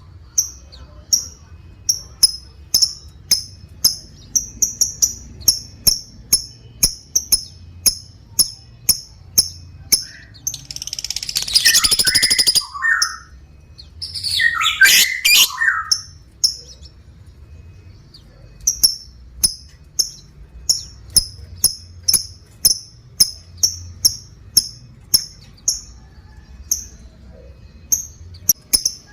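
A lovebird giving short, sharp, high chirps in a steady string, about two or three a second, broken near the middle by two longer rapid chattering trills, the drawn-out 'ngekek' call.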